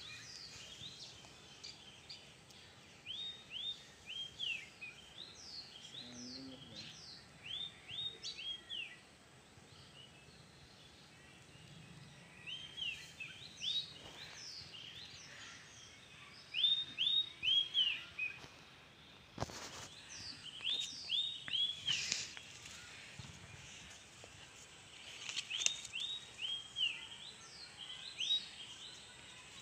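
A bird calling over and over in short chirps, in quick runs of three or four every second or two, over steady outdoor background noise. A single sharp click comes about two-thirds of the way through.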